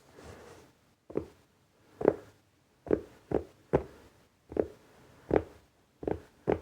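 Mobile phone box being tapped with the fingers: about nine separate, hollow-sounding knocks at an uneven pace of one to two a second, starting about a second in after a soft rustle.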